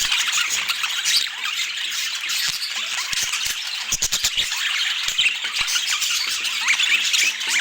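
Budgerigars chattering and chirping without pause, many short high calls overlapping, with a quick run of clicks about four seconds in.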